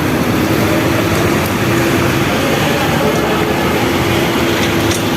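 Steady city traffic noise, with a steady engine hum held through most of it.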